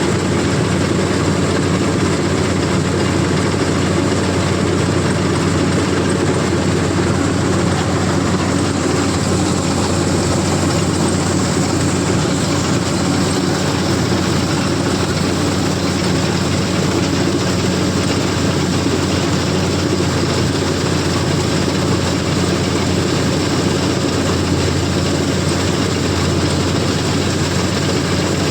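CLAAS combine harvester running steadily at working speed, a constant heavy engine drone with machinery noise over it.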